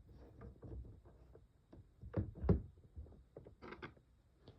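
Light taps, clicks and knocks of hands working on the plastic parts of a toy aquarium, with two louder knocks close together about two seconds in.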